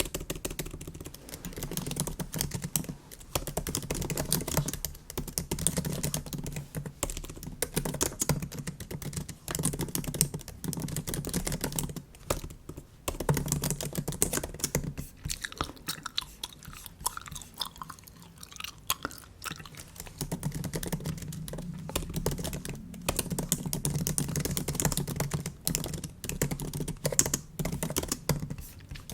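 Bubble gum being chewed close to the microphone, mixed with typing on a MacBook keyboard in quick runs of key clicks throughout.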